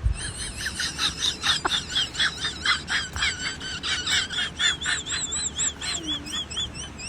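A bird chirping in a quick run of short, arched notes, several a second, settling into a steadier repeated chirp about halfway through; a low thump at the very start.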